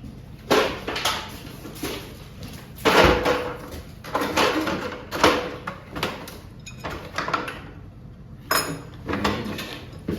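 Clanks and knocks of tools and metal hardware being handled at a garage door's torsion spring assembly, coming in uneven bursts about once a second, with the heaviest thump about three seconds in.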